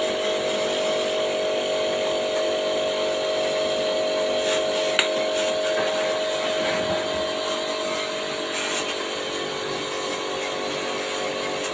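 An electric motor running steadily, a constant whine over a hiss, with a few light clicks.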